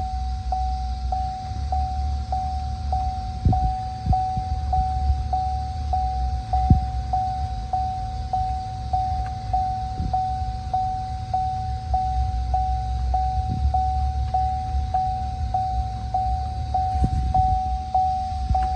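2015 GMC Sierra 1500's 5.3-litre V8 idling steadily, while a dashboard warning chime beeps over it at about one and a half to two beeps a second. A few light knocks sound now and then.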